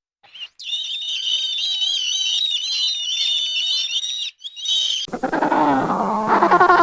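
High-pitched chorus of many overlapping animal calls. About five seconds in it gives way to a lower, wavering animal cry.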